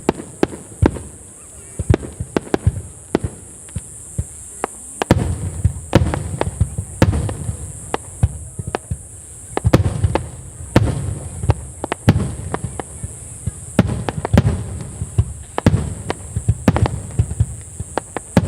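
Aerial fireworks going off: a rapid run of sharp bangs and crackles with low rumbling booms, growing denser about five seconds in. A steady high-pitched hiss runs underneath.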